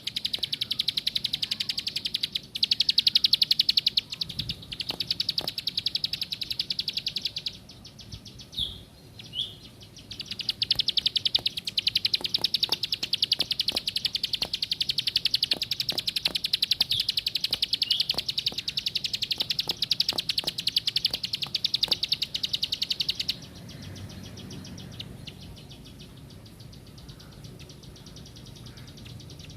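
Ciblek sawah (prinia) singing a long, fast run of rapidly repeated high notes, breaking off for about two seconds near 8 s with a couple of short single notes, then resuming until it stops about 23 seconds in.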